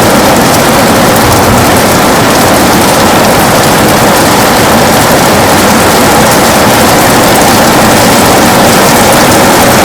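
Heavy rain falling on a window: a loud, steady, dense hiss with no letup.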